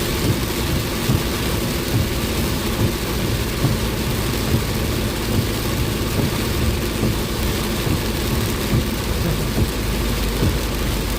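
Heavy rain pouring down on a moving car, with the car's engine and tyre noise underneath and a soft regular beat just under once a second.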